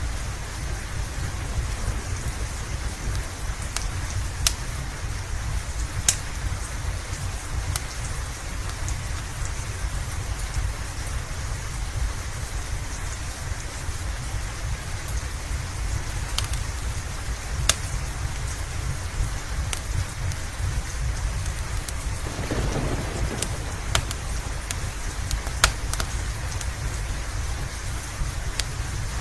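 Steady rain hissing over a low, continuous rumble, with scattered sharp pops of a crackling fireplace through it. A brief swell in the noise comes about three-quarters of the way in.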